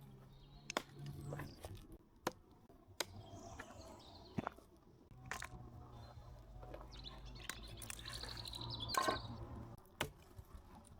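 Scattered sharp snaps and knocks of sticks being broken and handled as firewood, with a short bird chirp near the end.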